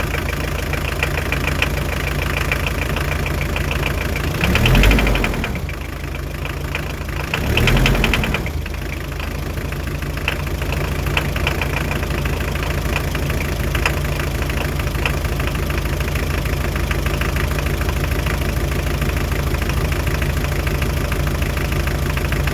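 Hyundai Terracan 2.5 D4BH diesel engine idling with a rhythmic knock, briefly revved twice around five and eight seconds in. The knock comes from a dribbling fourth injector: it stops when that injector's line is cracked loose.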